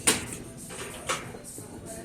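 Two short, sharp eating sounds about a second apart, the first the louder: spoon and bowl noises or slurping while eating a bowl of noodle soup, over faint background music.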